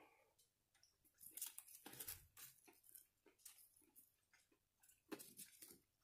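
Faint close-up chewing of food, made up of irregular soft clicks from the mouth. The clicks come thickest between about one and three seconds in, and again around five seconds in.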